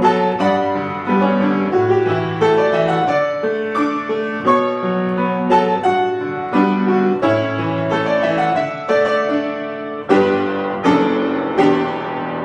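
Solo piano playing a piece: chords struck over a changing bass line, new notes coming about every half second to second and ringing on between them.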